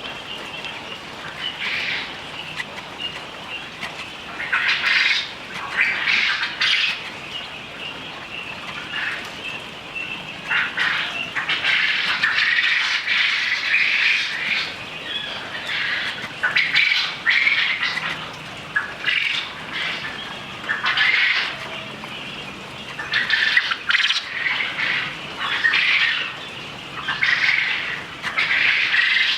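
Many quail calling at once, a dense, continuous chatter of high chirps and squawks that swells and dips.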